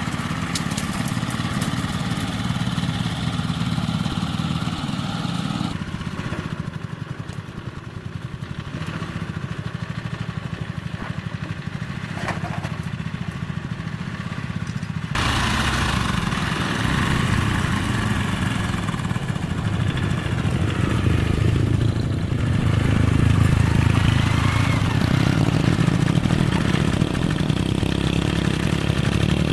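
Small engine running steadily. The sound changes abruptly twice and is louder and fuller in the last part.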